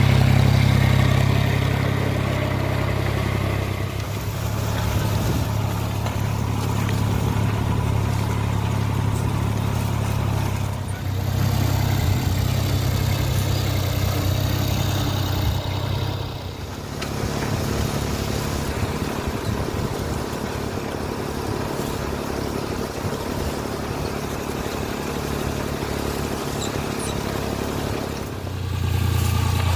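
Sonalika GardenTrac DI-20 mini tractor's diesel engine running steadily, its note shifting several times, with a brief dip about halfway through.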